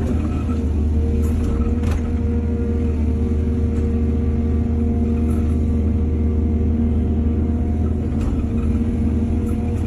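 Excavator's diesel engine running steadily, with a low drone and a steady higher whine, and a few light clicks or clanks about a second or two in and again near the end.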